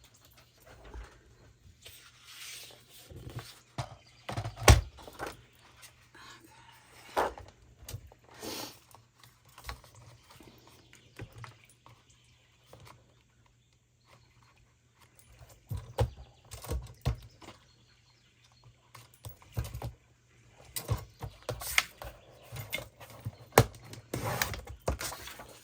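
Paper being cut and handled at a craft desk: irregular rustles, taps and clicks, with a sharp knock about five seconds in.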